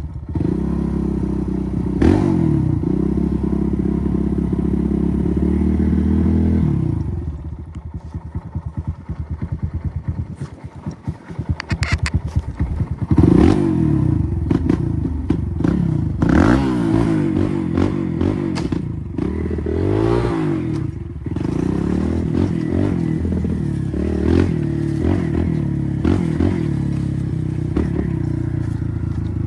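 Kawasaki KLX140R F dirt bike's air-cooled single-cylinder four-stroke engine running under throttle, easing off about seven seconds in, then revved up and down several times.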